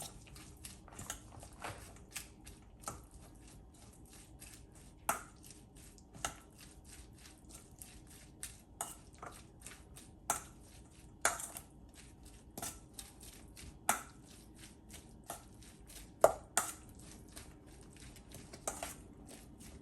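Shredded lettuce being tossed with mayonnaise, vinegar and oil in a bowl: a utensil keeps making light, irregular clicks and scrapes against the bowl, with occasional louder knocks.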